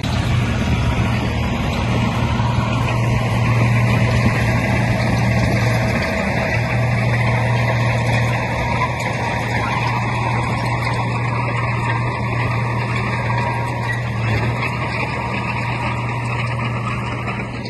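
Heavy diesel engine of an earthmoving machine running, a steady low drone that swells a little a few seconds in and then settles.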